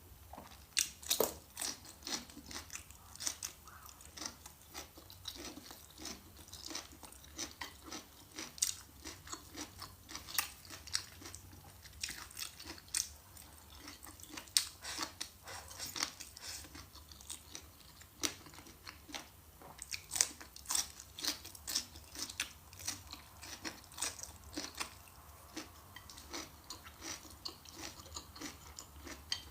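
Close-miked chewing of crunchy food, with irregular sharp crunches and wet mouth clicks a few times a second throughout.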